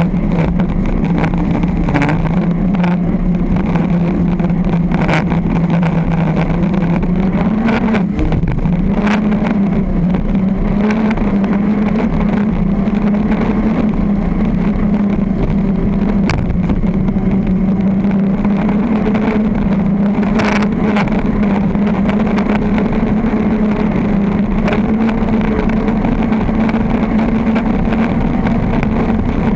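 V-drive circle-racing boat's engine running hard at high revs, heard onboard; its pitch climbs about eight seconds in and then holds steady. A few sharp knocks cut through it now and then.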